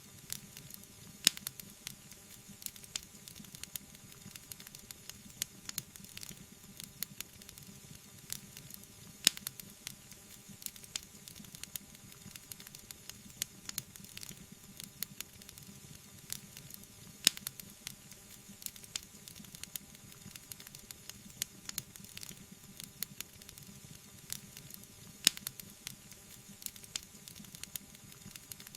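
Wood fire burning in a fireplace: a steady hiss and sizzle with frequent small crackles, and four sharper pops about eight seconds apart.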